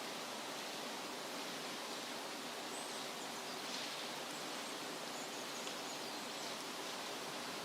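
Steady wind rustling through leafy trees, with a few faint, high bird chirps about three and five seconds in.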